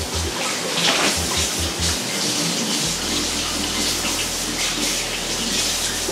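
Ground-beef smash-burger patties sizzling in a hot pan: a steady hiss.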